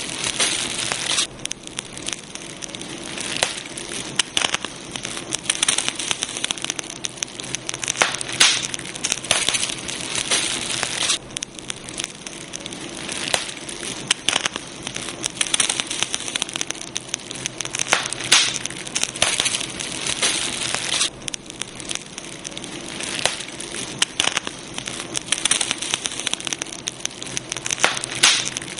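Campfire burning, with irregular crackles and sharp pops of the wood over a steady hiss, and now and then a louder snap.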